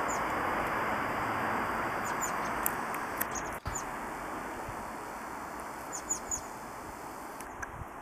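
Small birds chirping: short, high chirps a few at a time, coming every second or two, over a steady background rush. One sharp click a little past three and a half seconds in.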